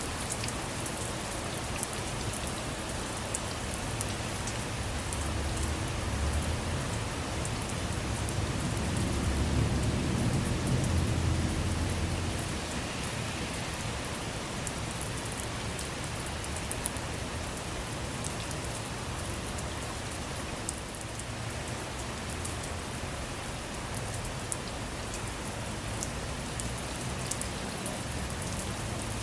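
Steady rain with scattered individual drops ticking. A low rumble of thunder swells and fades about eight to twelve seconds in.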